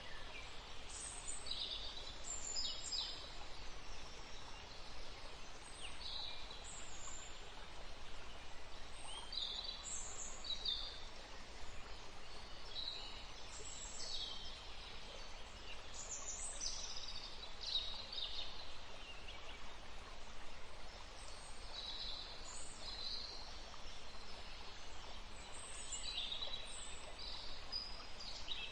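Small birds chirping: many short, high-pitched chirps coming every second or so, over a steady background hiss.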